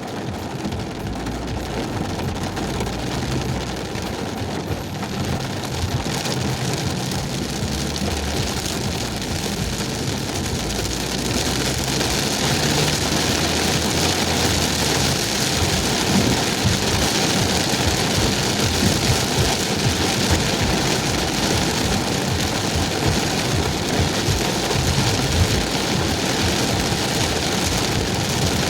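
Heavy rain hissing on a moving car, with a low engine hum underneath. The rain noise grows louder about ten seconds in.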